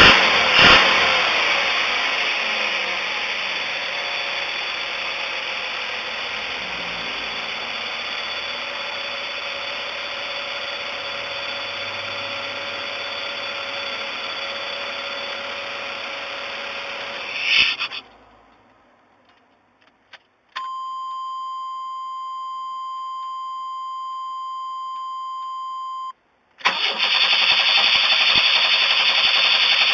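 1994 Chevrolet Astro's 4.3-litre V6 idling and settling down, then shut off about 18 seconds in. A steady electronic warning tone sounds for about five seconds. Then the starter cranks the engine near the end without it catching. The no-start was later traced to a failing ignition control module.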